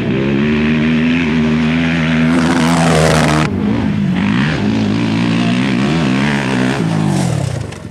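A motor engine running at a fairly steady pitch, with a burst of loud rushing noise about two and a half seconds in. After that the engine pitch dips and rises a few times, then fades just before the end.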